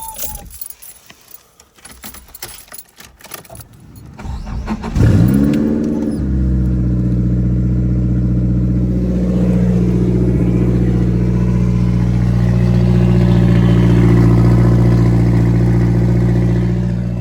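Keys jingling and clicking, then a Nissan S13's turbocharged SR20DET four-cylinder cranks briefly, catches about five seconds in with a short rising rev, and settles into a steady idle. The misfire is still there: the owner still hears a little something in the idle after reconnecting the vacuum line.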